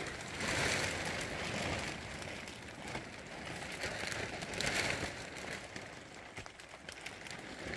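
Steady rain: a continuous hiss with many small drop clicks, swelling a little about half a second in and again near five seconds.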